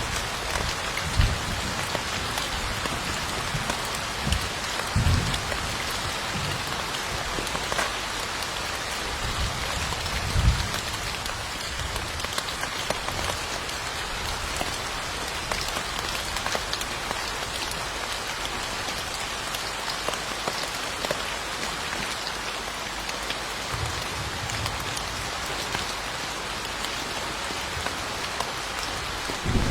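Steady rain falling and pattering on surfaces, an even hiss of drops. A few brief low thumps stand out, the strongest about ten seconds in.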